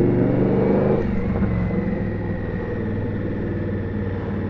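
Indian Scout's V-twin engine pulling under throttle, then easing off about a second in and running on at a lower, steadier level.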